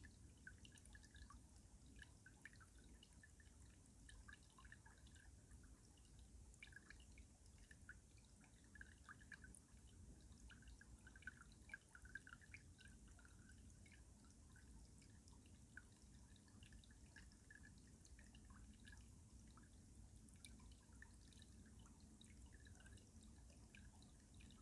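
Faint stream water running and dripping beneath ice: many short, scattered drips over a low, steady flow.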